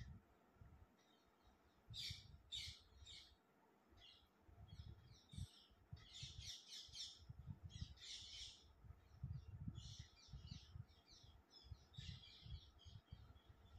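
Faint chirping of small birds, in short runs of quick high chirps every second or two, over a low, unsteady rumble.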